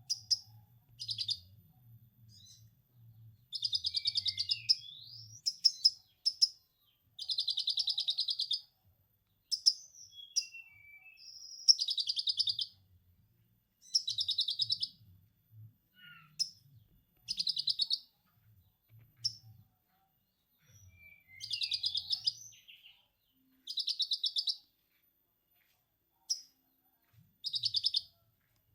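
Lovebird ngekek: repeated bursts of fast, rapid-fire chattering calls, each lasting about a second, a dozen or so with short pauses between them.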